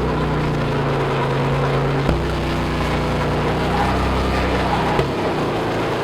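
Car engine droning steadily at a constant speed while driving, its tone shifting abruptly about two seconds in and again near the end.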